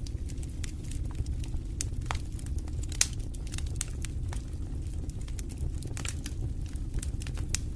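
Wood fire in a fireplace crackling: a steady low rumble of burning with scattered sharp pops and snaps, the loudest about three seconds in.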